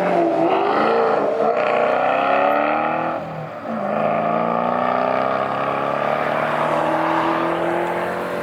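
A car's engine pulling away under acceleration, its note climbing for about three seconds, dipping briefly, then rising more slowly again.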